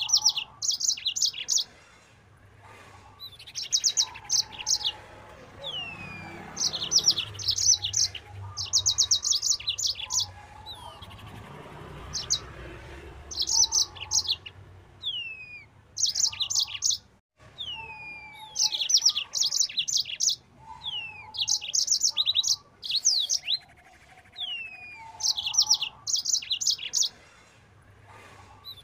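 Yellow-fronted canary (Mozambique canary) singing hard in repeated phrases every two to three seconds, each a downward-sliding whistle followed by a fast run of high chips.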